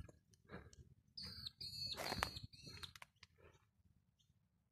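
Faint bird calls: three short, high whistled notes in quick succession about a second in, over soft footsteps on a footbridge.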